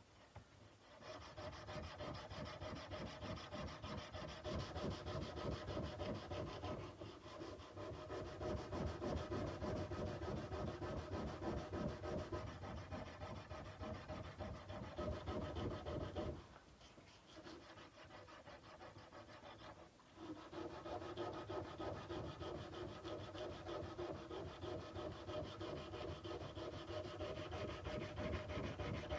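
Sandpaper rubbed by hand in fast back-and-forth strokes along a kukri's steel blade, stopping for a few seconds a little past the middle before starting again.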